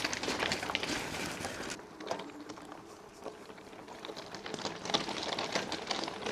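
Crackling, crunching noise of movement over a gravel and dirt track, with many small clicks. It dies down about two seconds in and picks up again near the end.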